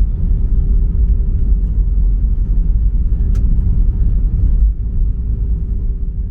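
Steady low rumble inside the cabin of an Airbus A319, with a faint steady hum over it. There is a brief click about three seconds in, and the rumble drops a little near the end.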